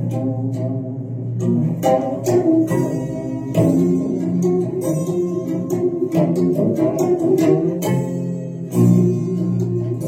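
Instrumental music on a plucked string instrument: phrases of plucked notes over sustained low notes.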